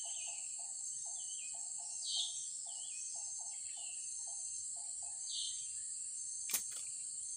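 Steady high-pitched insect drone, over which birds give a series of short falling chirps, with a low pulsing call repeating about three to four times a second until a little past halfway. A single sharp click near the end.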